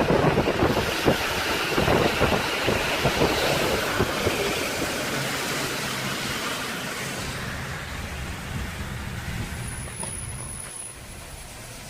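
Wind buffeting the microphone for the first few seconds over a steady rush of road noise, with a low vehicle engine hum that slowly fades away.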